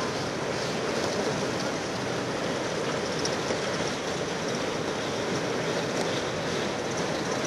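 Steady rushing noise of a Union Pacific coal train rolling across a steel girder bridge, with a few faint clicks.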